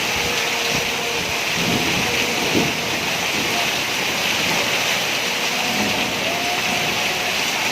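Heavy rain pouring steadily in a storm, a constant hiss of downpour.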